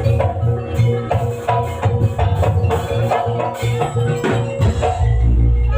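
Live jaranan ensemble music from Banyuwangi: drums and metal percussion keep a steady, quick beat over sustained pitched tones, and a deep low note comes in near the end.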